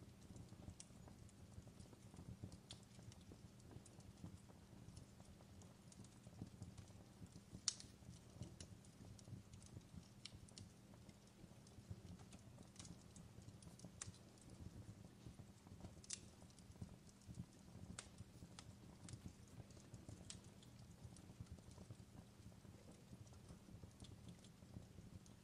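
Faint fireplace crackling: irregular sharp pops and snaps over a low, steady rumble.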